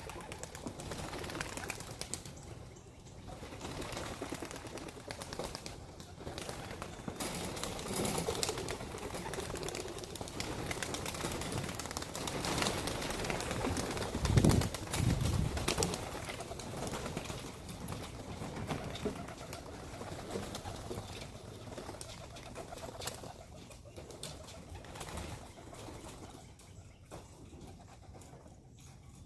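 A flock of young homing pigeons at the loft, wings flapping and clattering as they come out and take off, with some cooing. There is a low thump about halfway through.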